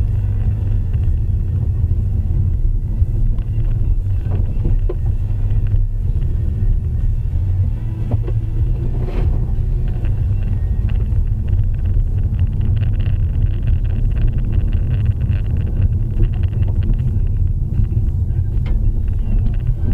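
Steady low rumble of a vehicle driving, with a rougher hiss added for a few seconds past the middle.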